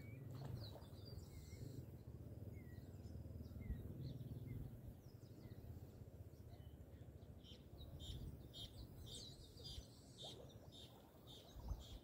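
Faint wild birds chirping: scattered short calls, then a quicker run of chirps about eight seconds in, over a steady low outdoor rumble.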